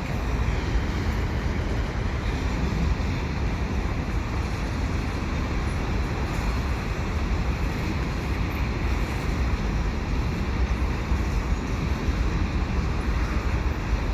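Freight cars of a mixed freight train rolling past, their wheels on the rails making a steady, unbroken noise.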